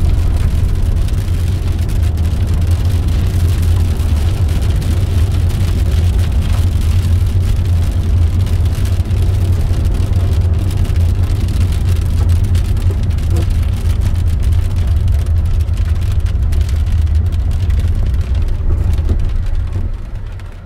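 Road noise inside a car driving on a gravel road: a loud, steady low rumble of tyres on loose gravel with many small ticks, which drops away near the end as the car slows.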